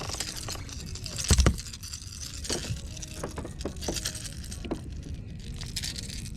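Handling noises: a run of sharp clicks, knocks and rattles, with one louder thump about a second and a half in, over a steady low rumble.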